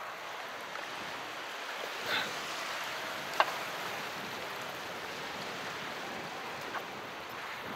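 Calm sea: a steady, even wash of water, broken by a few small clicks, the sharpest about three and a half seconds in.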